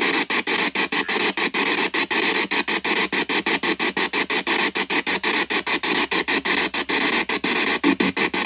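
Spirit box (ghost box) radio sweeping through stations: loud radio static chopped by short gaps several times a second, with brief snatches of broadcast sound.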